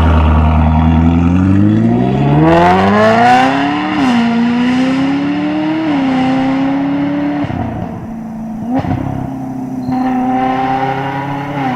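Ferrari California's 4.3-litre V8 through a Fabspeed Performance Package exhaust, revving hard with its pitch climbing steeply from about two seconds in. The pitch drops slightly at upshifts near four and six seconds, and there is a sharp crack about nine seconds in.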